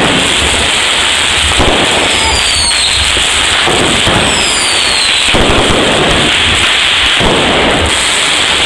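Consumer aerial fireworks going off in a continuous, loud barrage of bangs and crackle, with two short falling whistles about two and four seconds in.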